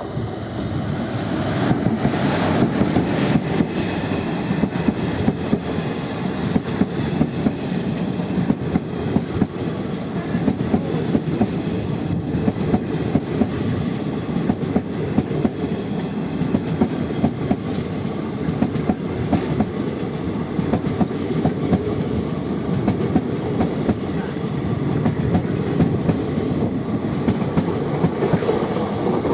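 Passenger train running along the track, a steady rumble with a dense clatter of wheel clicks on the rails; it grows louder about a second in.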